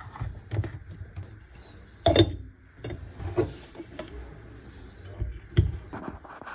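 Coffee gear being handled, with a few sharp knocks and clicks (the loudest about two seconds in and again near the end) over light rattling.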